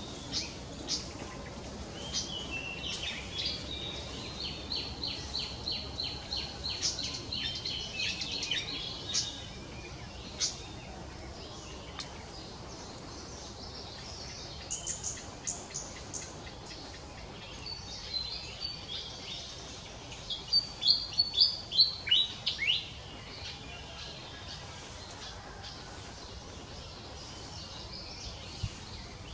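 Small birds chirping over a steady outdoor hiss: a long run of rapid high chirps in the first third, a short burst near the middle, and a louder series of sharp chirps about two-thirds in.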